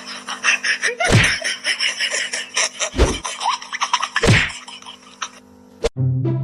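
Three heavy thumps, a second and a half to two seconds apart, over a dense crackling noise, then a sharp click and a cut into orchestral music with strings and timpani near the end.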